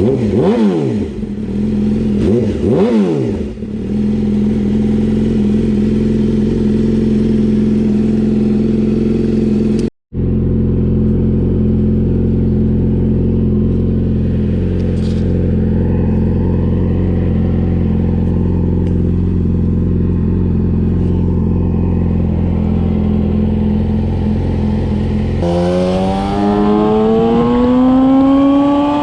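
Motorcycle with an aftermarket slip-on exhaust, an eBay copy of an SC-Project muffler. It is blipped twice in the first few seconds, then idles steadily, with a brief break about a third of the way in. Near the end it pulls away, its pitch rising steadily as it accelerates.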